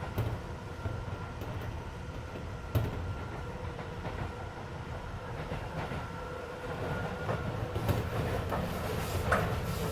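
Keisei 3400 series electric train running at speed, heard from inside the passenger car: a steady rumble of wheels on rail, with a few sharp knocks from rail joints.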